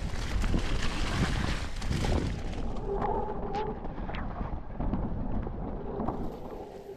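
Mountain bike riding down a wet, rocky trail: a steady wind rumble on the camera microphone, with knocks and rattles from the bike over rocks and roots. A short tone sounds about three seconds in.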